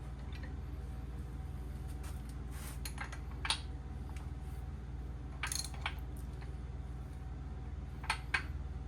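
A few short metal clicks and clinks from hand tools working on the engine's main bearing caps, over a steady low hum.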